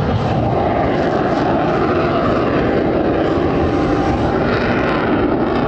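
Lockheed U-2's General Electric F118 turbofan jet engine running at high power as the plane passes, a loud, steady roar with a slowly shifting pitch.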